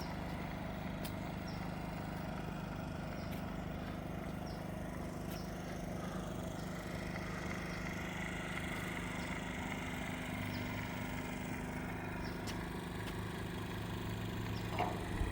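LiftMaster LA 500 swing gate operator running as it closes a wrought-iron gate: a steady motor drone whose pitch shifts slightly partway through.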